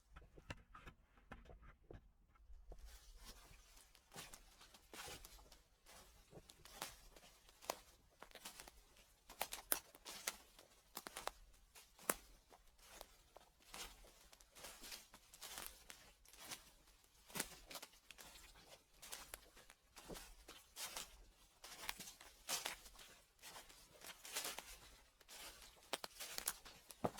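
Footsteps crunching through dry fallen leaves, crackling and rustling at a slow, even pace of about one step a second, sparser for the first couple of seconds.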